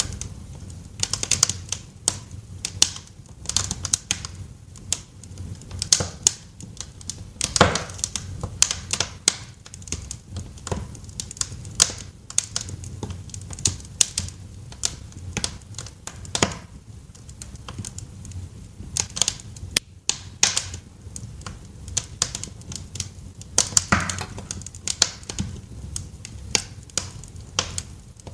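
Wood fire crackling in a fireplace: irregular sharp pops and snaps of varying loudness over a low steady rumble.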